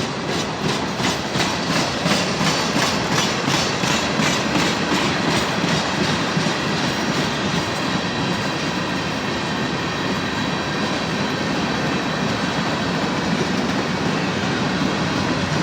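Norfolk Southern local freight train rolling past with a steady rumble of wheels on rail. For the first few seconds there is a rhythmic clicking of wheels over rail joints, about three a second, which then fades into the steady rumble.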